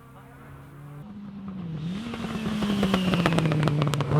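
Rally car engine approaching at speed and growing steadily louder, its note dipping briefly, as at a gearshift, before climbing again. A rapid run of sharp cracks comes as it draws near.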